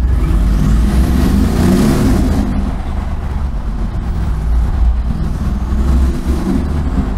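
2016 Mercedes-AMG G63's 5.5-litre twin-turbo V8 revving as it accelerates, heard through a cracked-open window. Its deep rumble climbs in revs over the first couple of seconds and rises again near the end.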